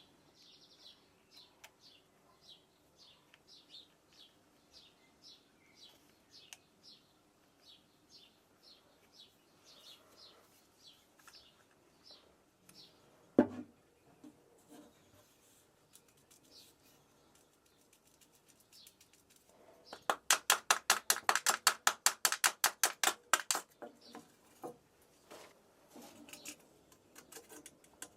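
A small bird chirping over and over, one short falling chirp about every half second, through the first half. About halfway through there is a single sharp knock, and later a loud, fast run of clicks, roughly eight a second, lasting a few seconds.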